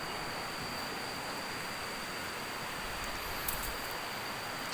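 Steady outdoor rushing noise with a thin, unbroken high insect drone, cicadas or crickets, above it; a short click about three and a half seconds in.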